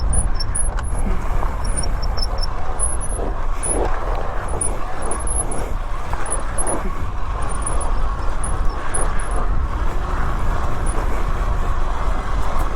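Two-stroke engine of a GasGas TXT 280 Pro trials bike running as it is ridden, a steady loud rumble with no pause, and faint high chirps over it.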